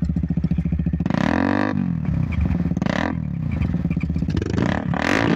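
KTM Duke 200's single-cylinder engine through a full-system Akrapovič exhaust, idling and then revved: one longer rev about a second in that rises and falls, a quick blip around three seconds, and more throttle blips near the end.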